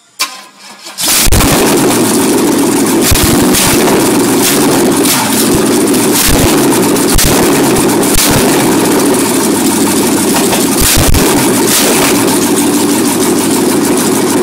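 Oldsmobile 350 V8 cold-started: a click and a short crank, then it fires about a second in and runs loud and steady.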